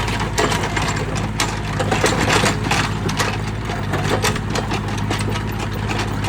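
Small excavator's diesel engine running steadily, with many irregular clanks and knocks from the machine as it works at digging.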